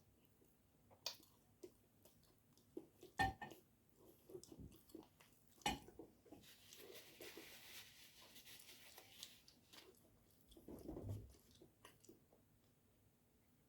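Close-up eating sounds: soft chewing and mouth clicks with occasional light clinks of a utensil on a dish, the sharpest click about three seconds in. A faint hiss runs from about six to nine seconds in.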